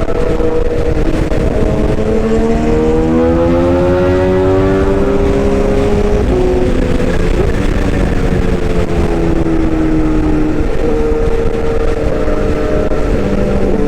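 Excavator engine running steadily, its pitch drifting slowly up and down as it works.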